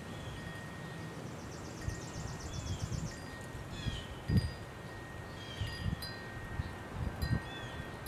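Small birds chirping, with a rapid trill about two to three seconds in, over a steady high ringing tone that breaks off now and then. A few low thumps, the loudest about halfway through.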